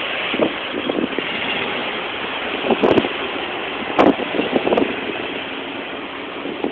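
Engine of an old 4x4 running as it drives past over a steady rushing noise, with several short louder bursts along the way.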